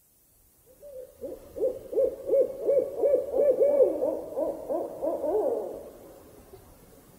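A bird's hooting call: a fast run of about a dozen hoots, each rising and falling in pitch, starting about a second in and fading out near the end.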